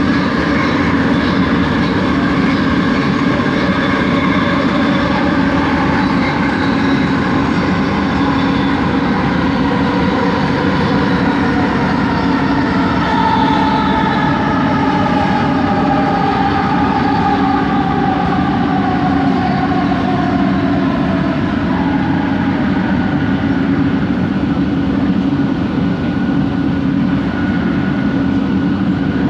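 Original Bombardier ART Mark II linear-induction-motor train of the Kelana Jaya Line running, with the steady rumble of the carriage over the track. Its motor whine (the line's "weird motor noise") is heard over the rumble, and midway one whining tone glides down in pitch over several seconds.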